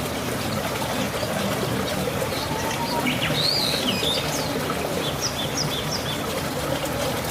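Small birds chirping: short high chirps and a few rising-then-falling whistled calls through the middle, over steady background noise.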